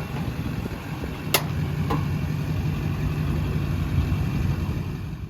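Diesel truck engine idling steadily, with two short sharp clicks about a second and a half and two seconds in.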